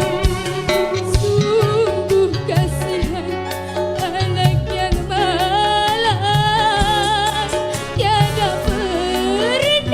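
A woman singing a melody with vibrato over a band accompaniment of bass and drums, with long held notes in the second half and an upward slide near the end.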